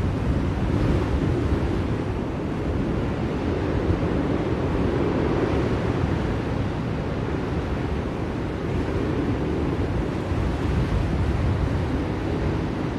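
Blizzard wind blowing steadily, a deep, even rushing noise without breaks or sharp gusts.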